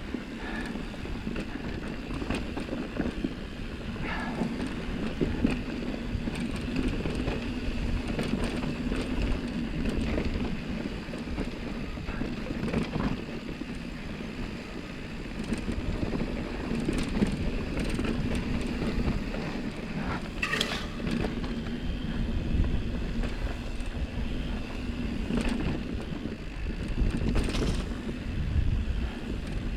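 Mountain bike rolling along a loose, dusty dirt trail: steady tyre and drivetrain noise with wind on the microphone. Scattered short rattles run through it, the loudest about two-thirds of the way in and again near the end.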